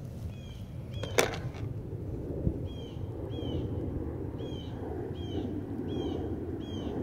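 A bird chirping over and over, short hooked calls about two a second, over a low rumble of wind and handling on the microphone, with one sharp click a little over a second in.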